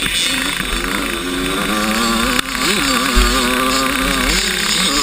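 85cc two-stroke motocross bike engine revving, its pitch rising and falling repeatedly as the throttle is opened and closed. A brief sharp click about two and a half seconds in.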